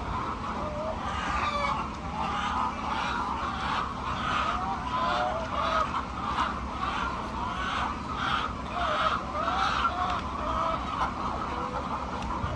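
A flock of chickens clucking and calling, with many short calls overlapping throughout.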